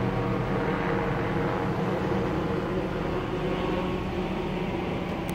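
Police helicopter hovering overhead, a steady drone of its rotor and engine.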